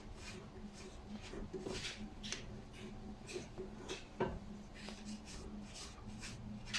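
Light clicks and rustles of a brake pad and caliper being handled and fitted, with one sharper knock about four seconds in, over a steady low hum.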